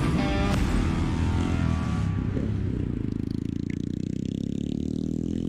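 A motor vehicle's engine running close by, its low hum rising slightly in pitch from about halfway in, after a couple of seconds of rushing noise.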